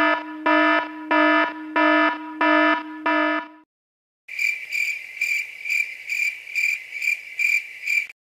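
Two sound effects in a row: first a low, buzzy electronic tone pulsing six times like an alarm buzzer, then, after a short gap, cricket chirping in a steady rhythm of about three chirps a second, the stock "awkward silence" crickets effect.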